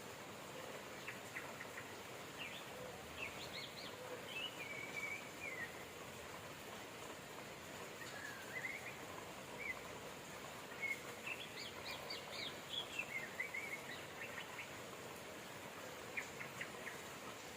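Steady rain with birds chirping over it in clusters of quick, high notes and short gliding calls, the busiest stretch coming just past the middle.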